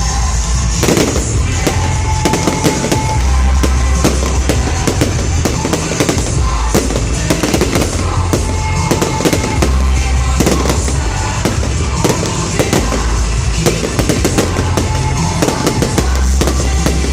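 Fireworks display: shells bursting and crackling in quick succession, starting about a second in, over a loud music soundtrack with heavy bass.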